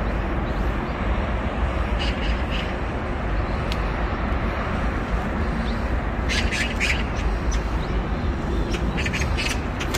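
Outdoor ambience of a steady low rumble with short bursts of bird calls, about two seconds in, around six to seven seconds in, and again near the end.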